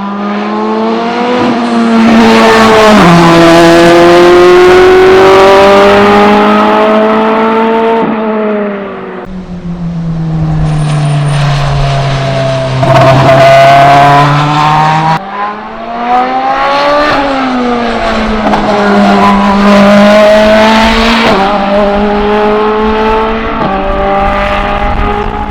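BMW M Hybrid V8 prototype's twin-turbo V8 racing at full pace, its note climbing and falling with speed and stepping abruptly in pitch at several gear changes.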